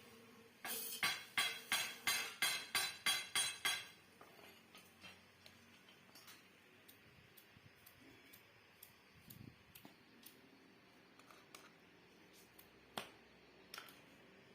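Hammer blows on metal: about ten quick, ringing strikes at roughly three a second, then scattered light taps and two single knocks near the end.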